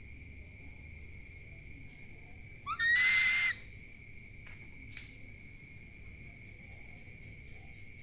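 An owl gives one short screeching call about three seconds in that rises in pitch and then holds for under a second, harsh and hissy. Behind it runs a steady high chorus of night insects.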